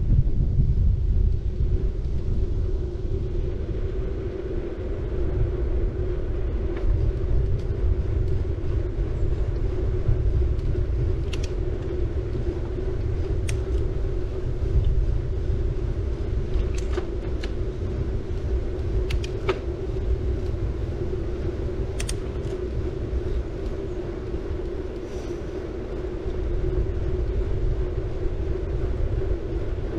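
City bike rolling along, its tyres and the rushing air making a steady low rumble with a constant hum, and a few sharp ticks in the middle stretch.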